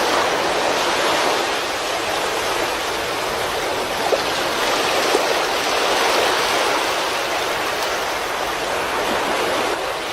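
Fast-flowing floodwater rushing steadily, an even wash of noise without breaks.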